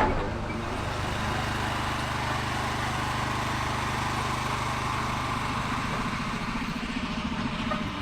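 An engine running steadily with a low hum and a hiss over it.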